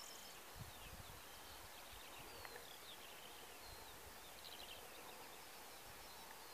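Faint birdsong from small birds: many short chirps and whistles, some sliding up or down in pitch, over a soft hiss. Light wind rumbles on the microphone now and then.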